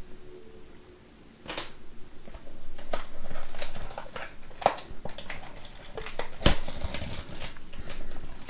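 Trading-card box and its wrapping being handled and opened by hand: a busy run of small clicks, taps and crinkling rustles.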